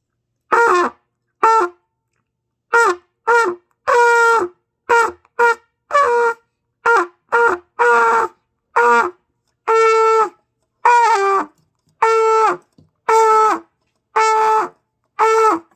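Trumpet blown by a beginner practising tone production: about eighteen short, separate notes, mostly on the same pitch with a few lower, some drooping in pitch as they die away, a few held a little longer.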